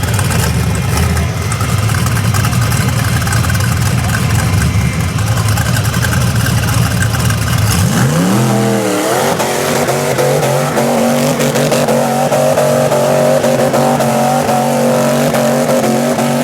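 502 Ramjet big-block V8 in a rock-bouncer buggy rumbling at low revs, then revved up about eight seconds in and held at a high, slightly wavering pitch against its rev limiter.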